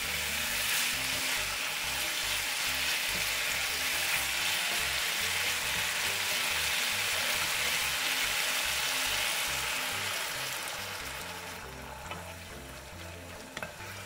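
Pork and vegetables sizzling in a hot frying pan as they are stir-fried with a wooden spatula; the hiss eases off about three quarters of the way through, with a couple of sharp clicks near the end.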